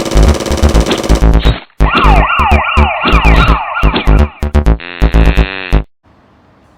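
Electronic intro music with heavy drum hits and a repeated siren-like sweeping sound in the middle, cutting off suddenly about six seconds in and leaving a faint hiss.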